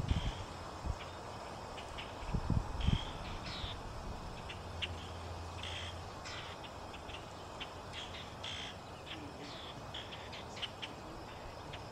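Scattered short bird chirps and ticks in the background, with a few low thumps in the first three seconds.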